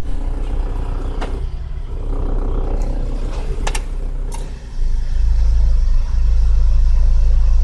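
A 1998 Toyota Kijang LGX engine idling at about 1000 rpm, running evenly rather than missing, with a few light clicks. About five seconds in, a louder low rumble comes in and holds.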